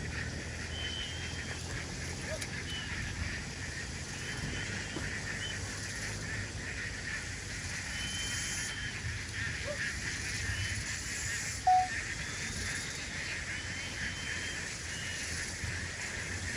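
A large flock of farmed ducks calling together in a dense, continuous chatter of quacks, with short high chirps scattered over it. One brief, louder single call stands out about two-thirds of the way through.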